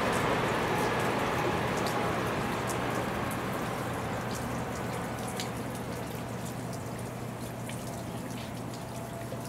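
Rain falling, with scattered sharp raindrop ticks, over the steady rumble of a passing Shinkansen bullet train that slowly fades.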